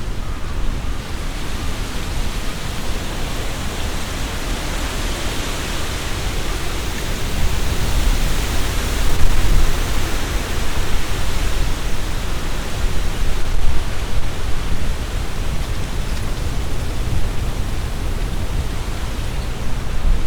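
Strong gusty wind blowing through trees, leaves rustling in a steady hiss over a low rumble. A stronger gust swells in about eight seconds in and eases off after about fourteen.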